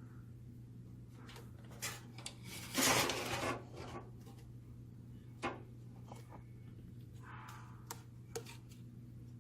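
Hard parts being handled on a bench: scattered sharp clicks and one short, louder scraping rub about three seconds in, over a steady low hum.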